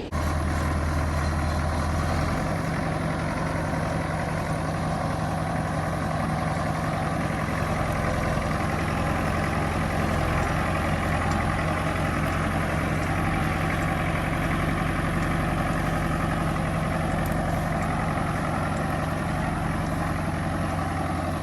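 Farm tractor engine running steadily, its note shifting slightly about two seconds in and then holding even.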